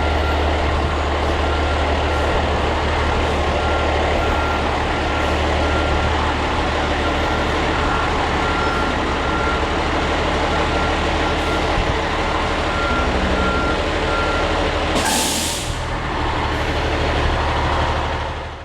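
Fire ladder truck's diesel engine running steadily, with a warning beeper sounding at a regular pace until about three-quarters of the way through. Then comes a short, loud hiss of released air.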